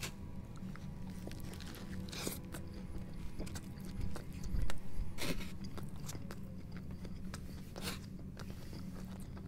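Close-miked chewing of a toasted breakfast sandwich, with three sharper crunches of the toasted bread. Underneath runs a steady low machine hum, which he puts down to an annoying cement saw at nearby construction.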